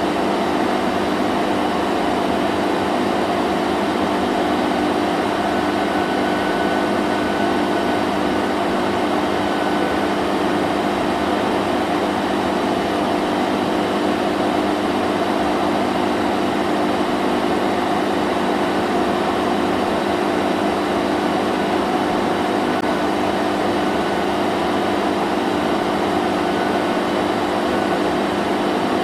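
Vacuum cleaner running steadily, a constant motor hum over an even rushing hiss of air.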